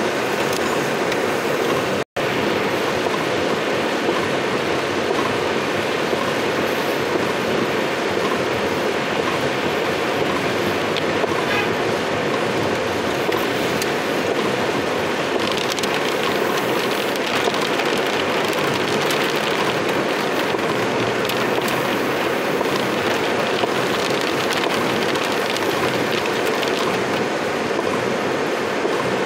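Heavy rain falling on a car's roof and windshield, heard from inside the cabin and mixed with the car's running noise on the wet street. The sound is steady, except for a brief dropout about two seconds in.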